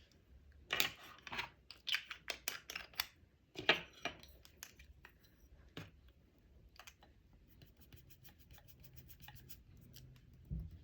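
Small objects handled close to the microphone: a cluster of crisp clicks and scratchy rubbing strokes in the first half, a quick run of faint ticks later, and a soft thump near the end.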